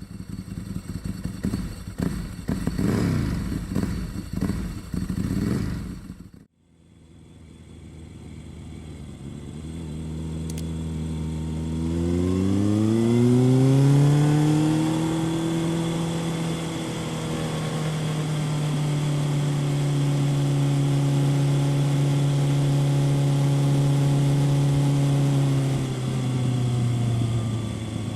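2000 Kawasaki ZRX 1100's inline-four engine through a Yoshimura exhaust. For about six seconds it is rough and choppy, then it cuts off suddenly. The engine note then comes back, rises in pitch over a few seconds and holds steady, easing a little near the end.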